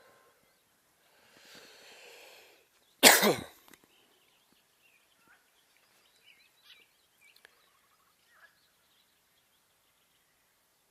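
A person sneezes once about three seconds in. The sharp burst follows a short drawn-in breath. Faint bird chirps come after it.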